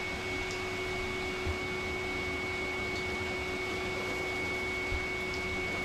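Electric grooming dryer's blower running steadily: a constant rush of air with a steady motor whine. Two soft bumps about one and a half seconds and five seconds in.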